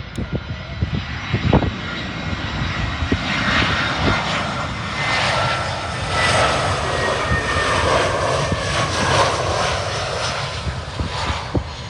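Airbus A320 jet airliner's engines passing by: the noise swells from about three seconds in, is loudest in the middle and eases near the end, with a whine that falls slightly in pitch as it goes past.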